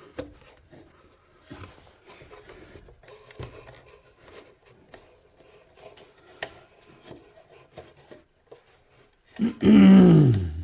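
Faint small clicks and rubbing as wires and small parts of a power-supply build are handled. About a second before the end comes a loud, drawn-out sound that falls in pitch.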